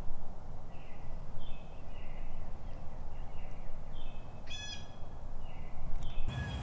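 Woodland birds calling: short, high notes repeated every half second or so, and one louder, harsher call about four and a half seconds in, over a low rumble.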